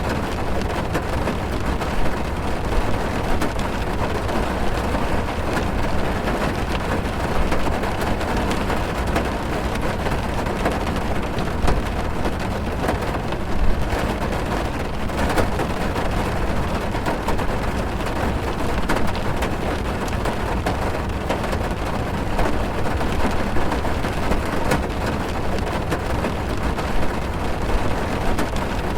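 Steady heavy rain drumming on a car's roof and windows, heard from inside the car: a dense, even patter with many small drop impacts.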